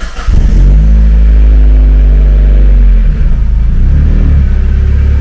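Mazda MX-5 four-cylinder engine catching after cranking and running at a steady fast idle. Its speed drops about three seconds in, rises and falls briefly, then settles into a steady idle. The owner suspects the engine has worn rod or main bearings and a knock from piston 1 or 2.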